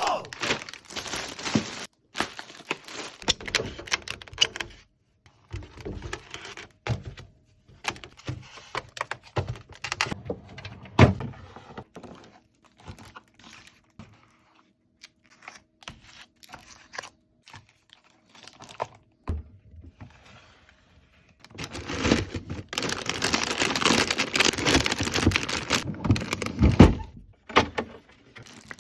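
Groceries being unpacked by hand: plastic bags and food packaging rustling and crinkling, with scattered knocks as packages are handled and set down. A longer, louder stretch of rustling comes near the end.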